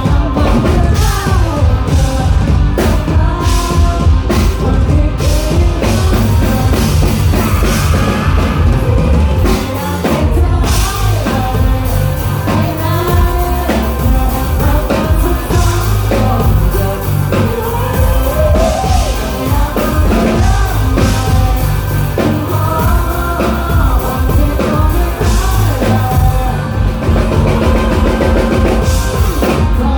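Live rock band playing loudly: drum kit, bass and electric guitar, with a melody line gliding over the top.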